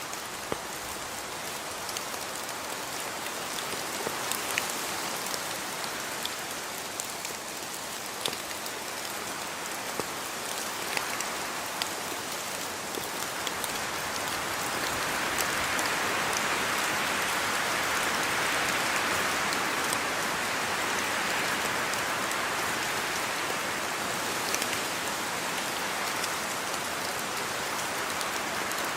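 Steady rain falling on a surface, with individual drops ticking sharply here and there; the rain grows somewhat heavier about halfway through and stays so to the end.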